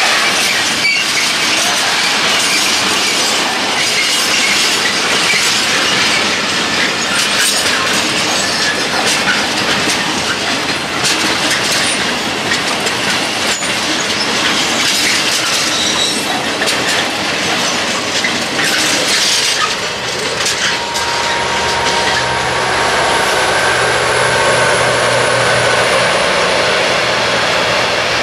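Freight train of covered aluminium-coil and curtain-sided wagons rolling past, wheels clattering over rail joints with a continuous rumble and rattle. About three quarters of the way through the sound turns steadier, with a few thin held tones over it.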